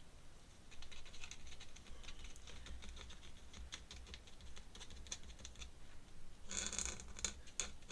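Faint pen scratching on sketchbook paper in many short, quick strokes, with a denser, louder flurry of scratching near the end.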